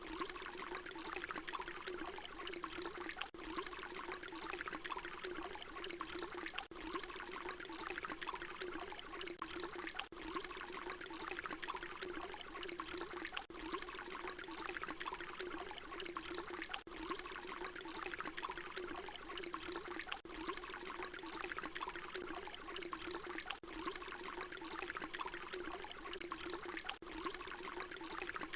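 Water pouring in a steady, continuous stream, splashing into water. A short recording repeats on a loop, with a brief dip in the sound every three to four seconds where it restarts.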